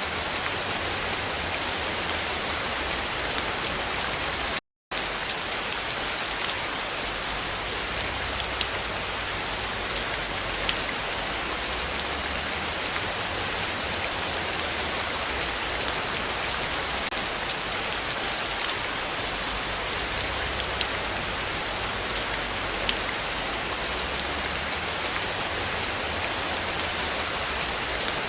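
Heavy rain falling steadily, a dense hiss of countless drops with fine individual patters. It cuts out completely for a split second about five seconds in.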